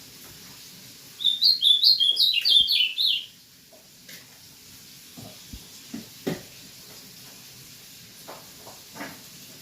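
A songbird singing a two-second burst of fast, high chirping notes, many of them falling slightly, starting about a second in. A few soft knocks follow later.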